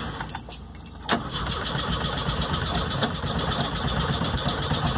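Keys jangle at the ignition, then about a second in a car engine is cranked with the key and churns over without catching cleanly. The failure to start is blamed on the ignition coil.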